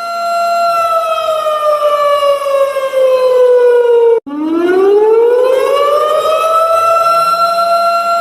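Wailing siren: a steady tone that slides down in pitch, breaks off abruptly about four seconds in, then rises back up to the steady tone.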